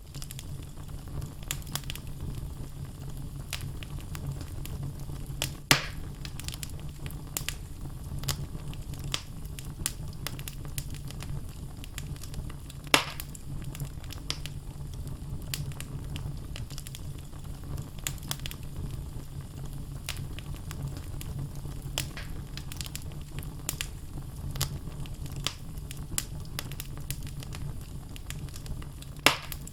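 Wood logs burning in a fireplace: a steady low rumble of flames with frequent small crackles and snaps, and three louder pops, about six seconds in, about thirteen seconds in, and near the end.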